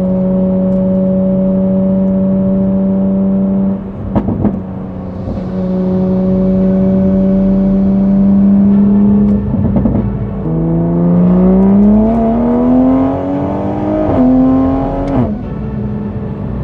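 Car engine holding steady revs, broken off twice, then dropping briefly and revving up with a steadily rising pitch before cutting off near the end.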